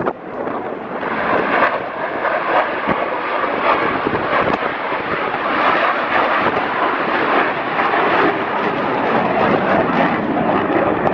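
Loud, steady jet noise from the USAF Thunderbirds' F-16 Fighting Falcon fighter jets in flight, building over the first second and then holding.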